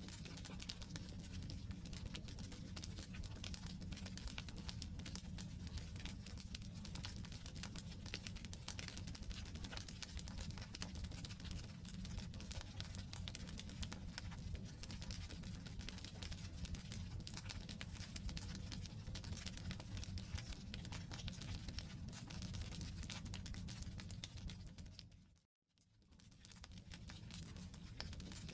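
Wood campfire burning, with dense crackling and snapping over a low rumble of flame. Near the end it cuts out for about half a second and fades back in.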